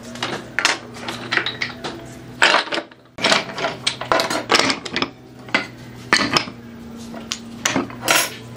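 Workshop clatter of hand tools: irregular sharp knocks and scrapes over a steady low hum, with a brief break about three seconds in.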